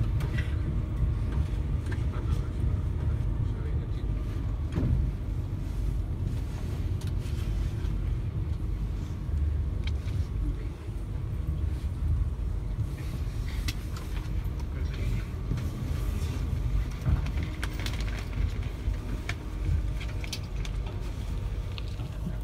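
Cabin noise aboard a Class 390 Pendolino electric train: a steady low rumble from running, with faint steady hums above it and occasional light clicks.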